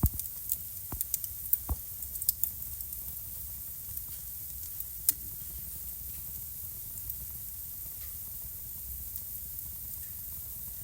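Wood fire crackling in a fireplace: a flurry of sharp pops in the first couple of seconds and one more about five seconds in, over a steady low hiss and rumble of the burning fire with faint ticks.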